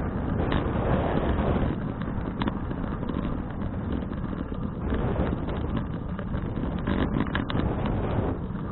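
Wind buffeting the microphone of a bike-mounted action camera while riding, a steady low rumble mixed with road noise, with a few short clicks.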